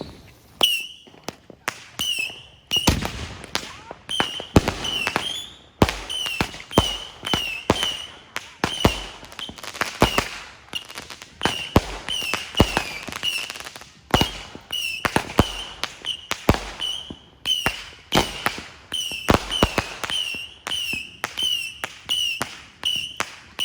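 An aerial firework cake firing a long run of shots, about one to two bangs a second, many with a short high whistle just after the bang.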